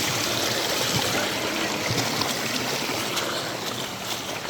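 Steady rush of a flowing river, with a few light splashes.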